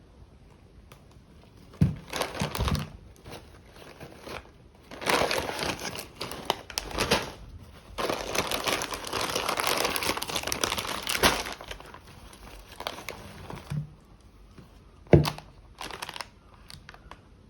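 Plastic packaging crinkling and crumpling as it is handled, in irregular bursts with one longer stretch in the middle, and a sharp knock near the end.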